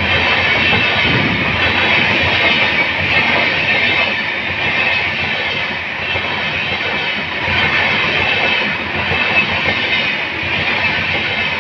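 Passenger coaches of an express train running past close to the track, a steady loud rush of wheels on rail.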